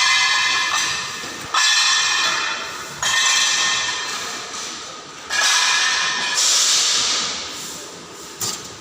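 Steel being struck hard five times, about every second and a half. Each blow rings out with a metallic clang that fades away, the kind of hammering done on plates in ship fabrication.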